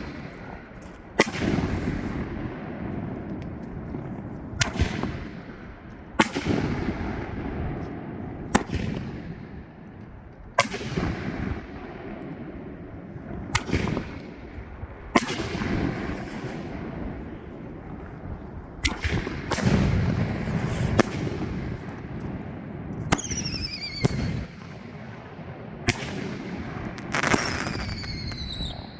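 Pyro Box Sky Bangers 5-inch canister firework shells going off: a series of loud bangs every second or two, each echoing away. Near the end, falling whistles come before two of the bangs.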